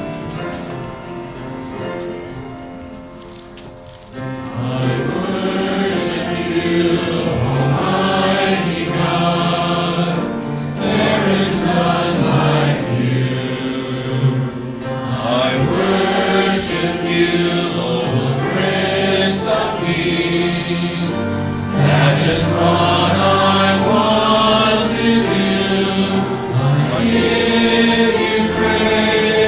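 A hymn sung by a group of voices with instrumental accompaniment. A soft instrumental passage comes first, then the singing comes in loudly about four seconds in.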